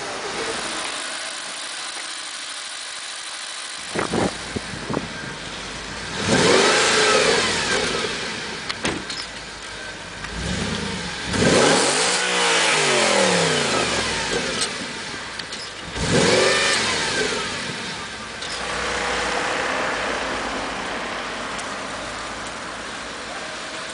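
Audi RS4 B7's 4.2-litre V8 revved hard about four times, each rev climbing and then falling back to idle.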